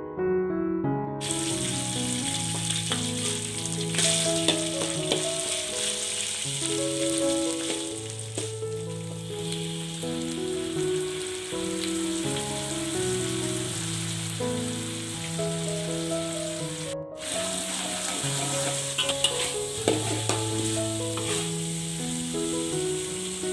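Chilli paste (sambal) and lemongrass sizzling as they fry in oil in a wok, starting about a second in, with a few knocks and scrapes of a stirring spatula. The sizzle cuts out briefly once, about two-thirds through. Soft piano background music plays throughout.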